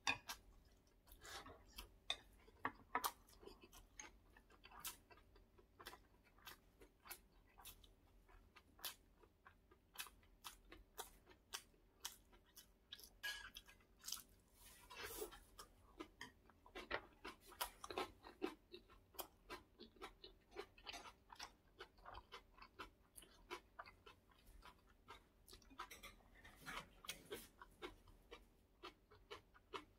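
Quiet, close-up chewing of omurice and kimchi: a steady run of short mouth clicks and smacks, several a second.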